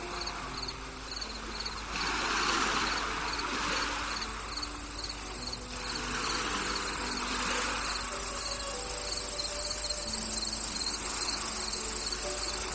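Steady high-pitched insect chorus, with evenly spaced cricket chirps, about three or four a second, that fade out near the start. Under it are soft, long-held low music notes and a hiss that swells and fades every few seconds.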